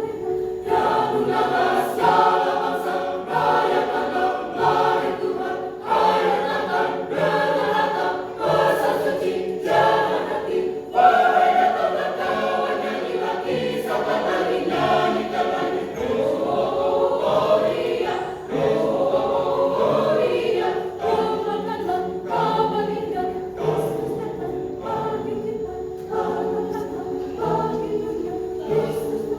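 Church choir singing a Christmas song in parts, many voices together without a break.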